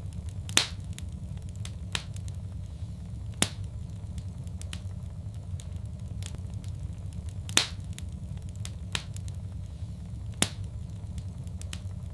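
Fireplace fire crackling: many small sharp crackles and four louder pops spread through, over a steady low rumble.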